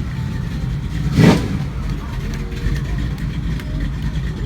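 Car engine running in a low, steady rumble, with one short, loud rev about a second in.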